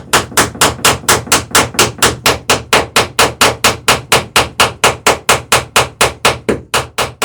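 A hammer peening rivets in a wooden boat's lapstrake planking: a fast, steady run of sharp strikes, about four to five a second.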